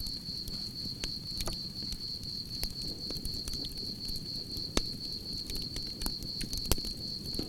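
Campfire crackling, with sharp pops scattered through a low rumble of burning wood; the two loudest pops come a little past halfway and near the end. Over it, crickets keep up a continuous high-pitched chirping.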